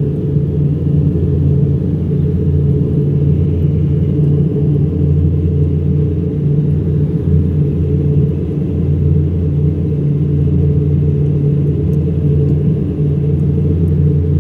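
Cabin noise of an Embraer EMB-120 Brasilia's twin turboprop engines and propellers in flight: a loud, steady drone with a deep hum of low tones.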